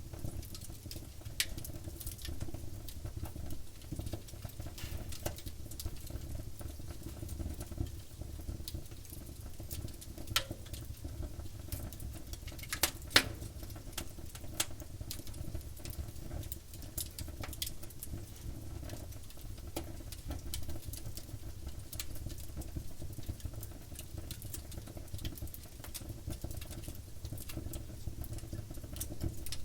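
Wood campfire crackling, with frequent sharp pops and snaps over a low steady rumble; one louder pop comes about halfway through.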